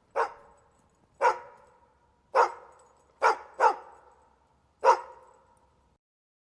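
A dog barking six times: single sharp barks about a second apart, two of them close together just past the middle, each followed by a short echo.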